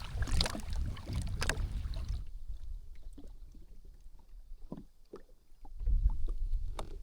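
Sea-Doo jet ski at low speed, a low engine and hull rumble that drops away about two seconds in, with small water slaps and splashes against the hull; a short low rumble returns near the end.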